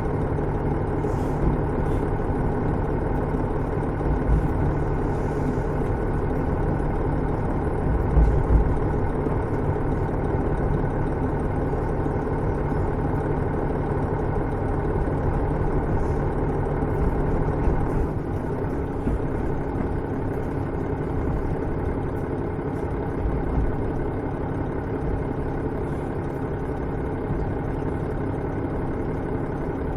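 Inside a KiHa 110-series diesel railcar: the diesel engine running at low revs, close to idle, as the train runs slowly into the terminus. There are a few low thumps from the running gear, and the sound settles slightly quieter about eighteen seconds in.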